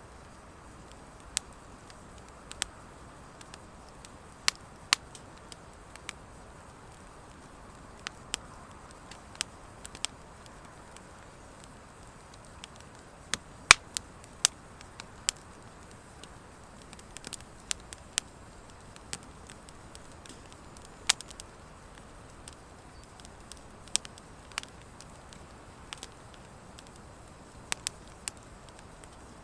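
Wood fire of driftwood and dry hardwood logs burning, with sharp, irregular pops and crackles over a soft steady hiss of the flames. One pop about halfway through is the loudest.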